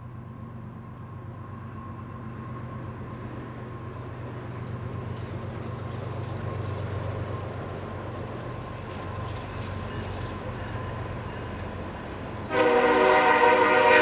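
Diesel freight locomotive approaching, its low engine rumble growing louder, then the locomotive air horn sounding loudly for the last second and a half.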